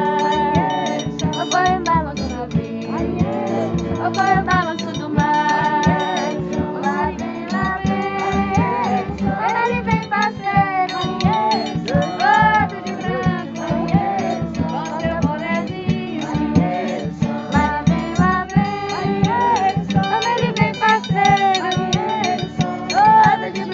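Live folk music: voices singing a song over a steady, regular percussion beat.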